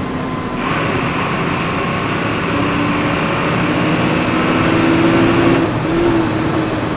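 Diesel engine of a Volkswagen 17.230 EOD city bus heard from on board, pulling steadily with its pitch rising a little before easing off near the end. A hiss comes in about half a second in and cuts off suddenly about five and a half seconds in.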